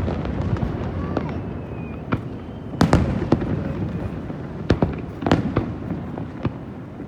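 Aerial fireworks going off: a loud bang about three seconds in, several more bangs later on, and crackling over a continuous rumble.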